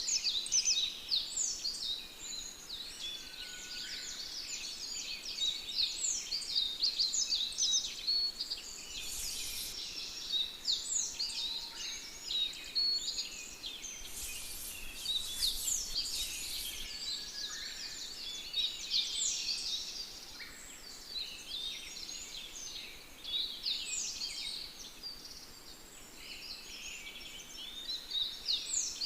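A dense chorus of many small birds singing and calling, with short quick calls overlapping throughout. Brief rustles come about nine seconds in and again for a few seconds from about fourteen seconds.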